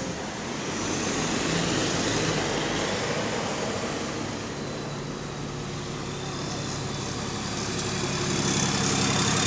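Diesel bus engine running as the bus pulls up, with the turbocharger whining and whistling and the engine noise growing louder as it draws near. The bus has an exhaust leak.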